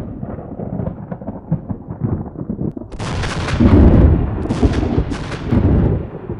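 Thunder rumbling and cracking, loudest about four seconds in, with three short spells of hiss in the middle.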